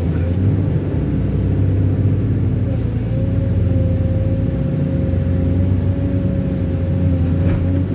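Heavy vehicle's engine running steadily under load, with a constant whine above the low hum, as it struggles on a slippery muddy slope.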